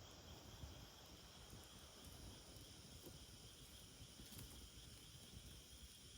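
Faint, steady high-pitched insect chirring, with a couple of faint short clicks partway through.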